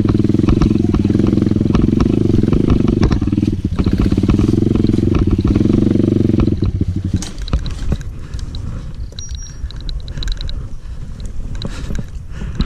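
Dirt bike engine running loud and steady, then cutting out abruptly about six and a half seconds in. Scattered clicks and rattles follow.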